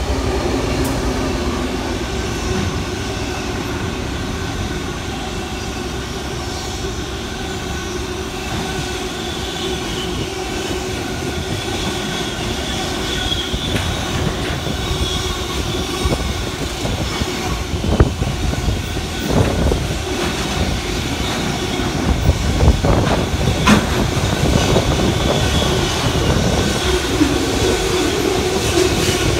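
Train running on rails: a steady rumble of wheels on track, with a run of sharp clacks and knocks about 18 to 24 seconds in.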